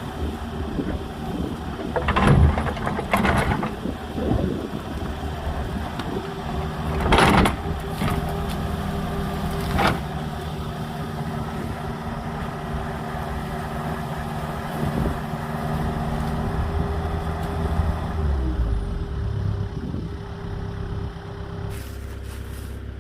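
Agricultural mini excavator's engine running steadily, with several loud clanks from the machine's working parts about two, three, seven and ten seconds in. The engine's pitch shifts briefly near the end.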